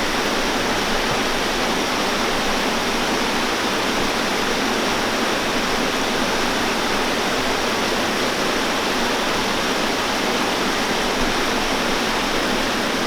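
Waterfall pouring, a steady, even rushing of falling water.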